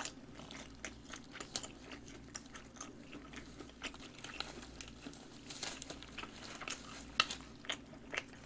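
Close-miked chewing of napa cabbage kimchi: irregular small crunches and wet clicks of a mouth at work, with a few louder crunches past the middle.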